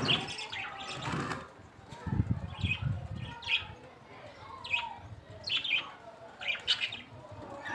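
Short, high bird chirps repeating roughly once a second, with a low rumble of handling or movement noise a couple of seconds in.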